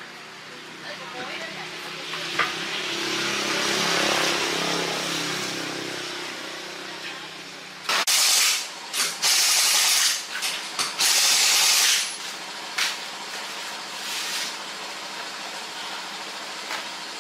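Several loud hissing blasts of compressed air, each lasting a second or two, begin about halfway through. A few shorter bursts follow. Underneath is steady shop background noise.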